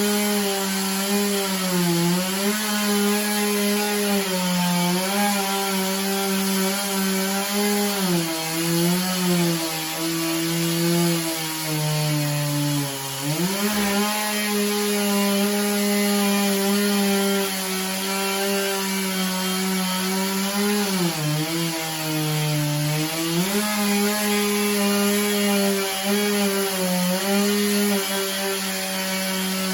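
Two-stroke chainsaw bucking a big hickory log, running at high speed with its engine note sagging again and again as the cut loads it, then picking back up. The chain is one the operator calls dull as dog snot and loose.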